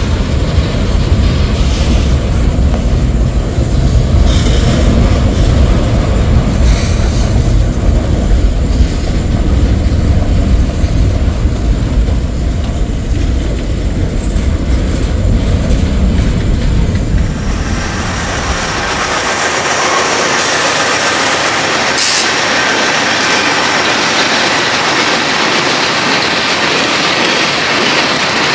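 Norfolk Southern mixed freight train's cars rolling past close by: a loud, deep rumble of wheels on rail. About two-thirds of the way through it changes to a thinner, hissier rolling noise with faint steady high tones.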